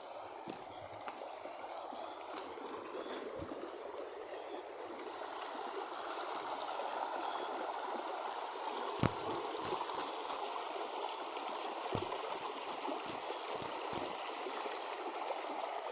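Forest stream running steadily, growing louder about a third of the way in, with scattered sharp knocks and splashes in the second half. A thin, steady high-pitched insect drone sits above it.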